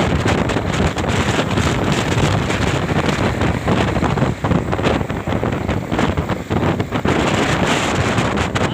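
Loud, steady wind buffeting the microphone, a dense rushing noise with brief dips.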